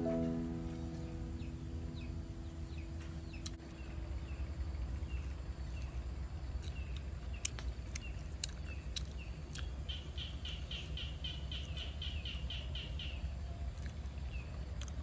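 Small birds chirping outdoors: scattered short falling chirps, then a fast run of about a dozen notes around ten seconds in, over a steady low rumble with a few sharp clicks. Background music fades out in the first couple of seconds.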